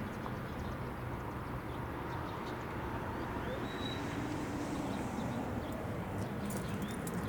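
A steady low mechanical rumble, with a faint short high chirp about four seconds in.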